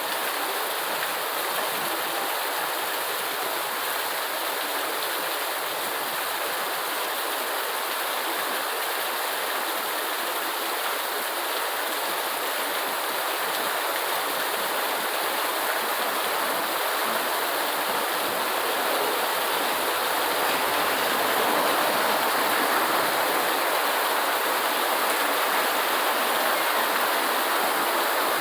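Steady rain falling in an even hiss, with no separate drops or pauses, growing a little louder in the second half.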